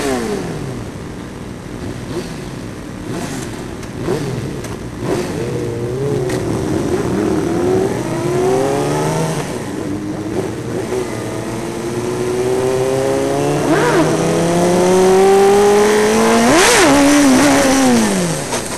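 Suzuki GSX-R sport bike engine held on the throttle through a wheelie. Its pitch wavers up and down, then climbs slowly through the second half and falls off near the end.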